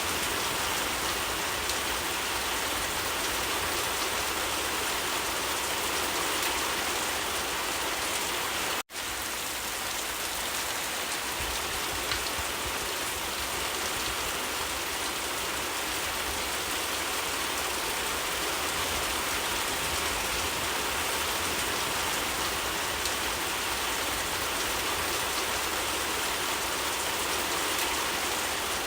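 Steady heavy rain falling as a continuous, even hiss, with a momentary cut-out about nine seconds in.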